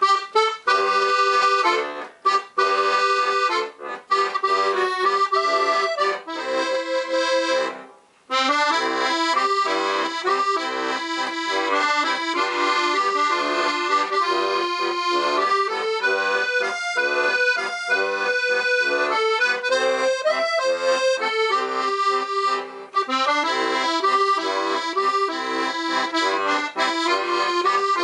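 Weltmeister Monte piano accordion with four-voice LMMM reeds playing a tune, stepping through its musette registers. The playing stops briefly about eight seconds in, then carries on.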